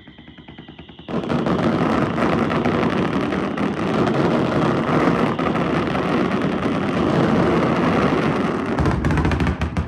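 Daytime fireworks display: a faint falling whistle trails off, then about a second in a dense, continuous barrage of exploding shells and crackling breaks out.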